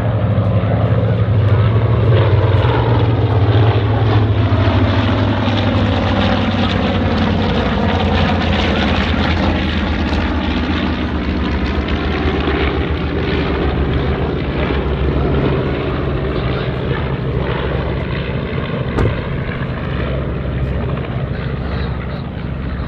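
Propeller airplane flying past, its engine drone gliding down in pitch in the first half and slowly fading away.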